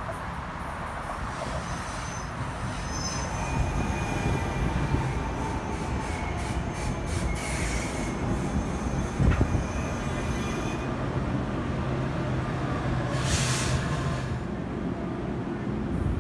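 NJ Transit commuter train moving through the station, its wheels squealing faintly on the rails over a steady low hum from the train. A short hiss comes near the end.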